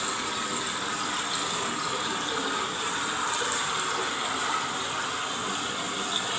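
Steady rushing of a waterfall, an even wash of falling water without breaks.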